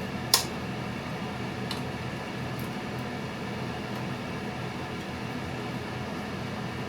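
Steady mechanical hum with an even hiss, broken by one sharp click about a third of a second in and a few faint ticks.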